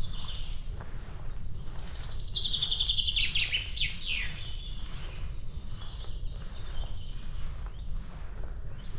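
A songbird sings a rapid trill with quick falling notes from about two seconds in to about five, with fainter high chirps from other birds near the start and end. Beneath it run evenly paced footsteps on a path and a steady low wind rumble on the microphone.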